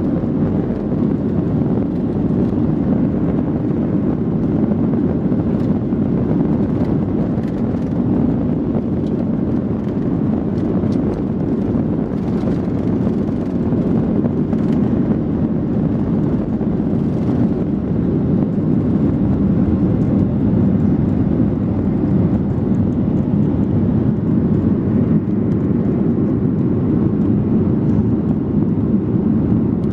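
Steady cabin noise inside a Boeing 737-800 in flight: a constant low rush of its CFM56-7B jet engines and the airflow past the fuselage.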